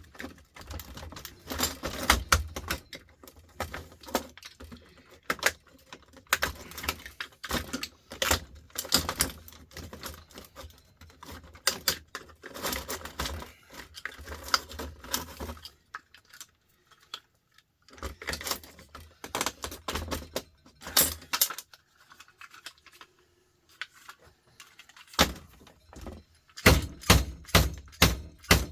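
Hand tools and loose metal and plastic parts clattering and knocking irregularly as a small appliance is pried apart for scrap, with a few pauses. Near the end comes a quick run of loud, sharp knocks, about four a second.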